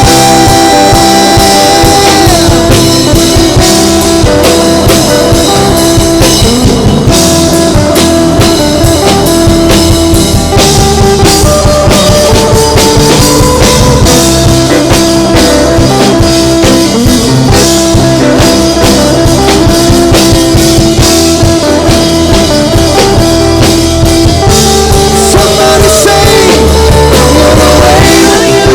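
Worship band playing a song with drum kit and guitar, with singing.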